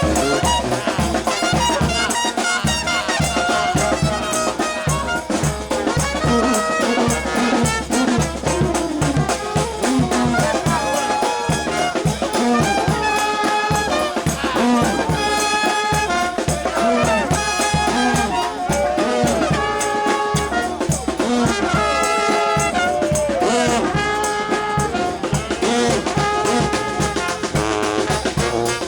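New Orleans brass band playing a second-line tune: trumpets and trombones in held, stacked notes over a steady drum beat.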